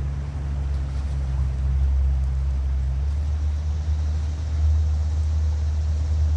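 Steady low rumble with faint hiss above it and no distinct events.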